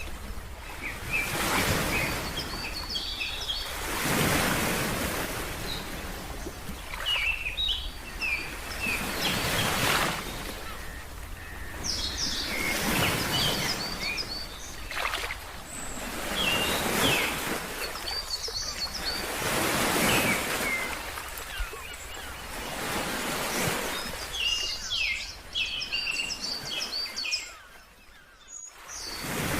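Ocean waves washing in, swelling and fading every few seconds, with small birds chirping in short bursts over them. There is a brief lull near the end.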